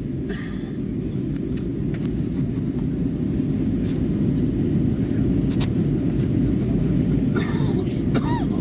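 Steady low rumble of engine and airflow noise inside the cabin of an Airbus A320 in flight, slowly growing louder, with a few faint clicks.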